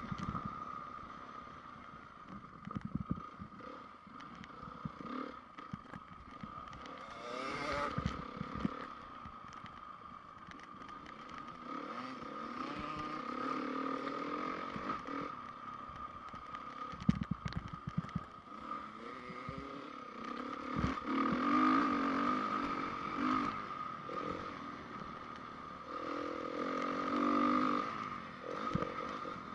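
Honda CRF450R single-cylinder four-stroke motocross engine revving up and easing off repeatedly as the bike is ridden round a dirt track, with clattering knocks from the bike over the bumps.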